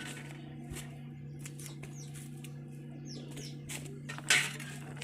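Phillips screwdriver working a tight screw on a motorcycle starter motor casing: scattered clicks, scrapes and short squeaks, with a louder scrape about four seconds in, over a steady low hum.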